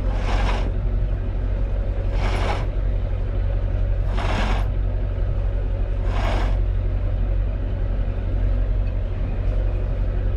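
Sailboat's engine running steadily under way, with four rushing swishes about two seconds apart over the first seven seconds.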